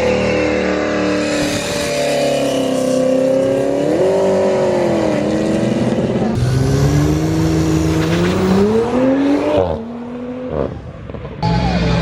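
Sports car engines revving, the engine pitch rising and falling in waves. There is a brief lull about ten seconds in, then another engine comes in loud near the end.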